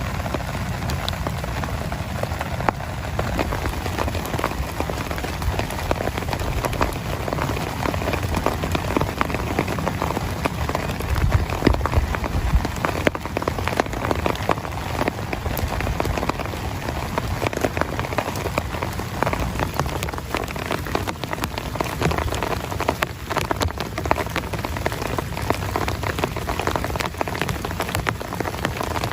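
Heavy rain falling steadily on a tent, a dense patter of individual drops over a low rumble.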